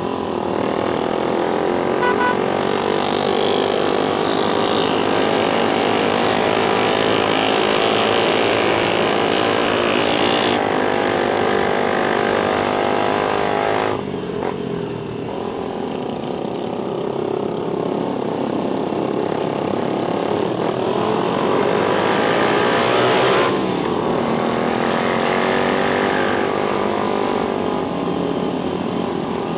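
Suzuki GSX-R150's single-cylinder engine running under way, its pitch rising and falling with the throttle, over wind rush. The sound changes abruptly twice, about halfway through and again a few seconds later.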